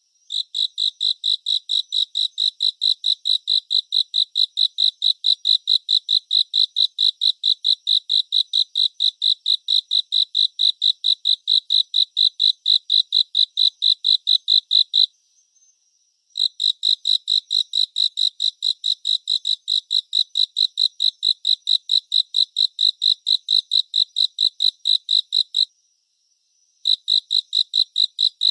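Cricket chirping close up: a high, even pulse repeated about four times a second in long runs, breaking off briefly twice.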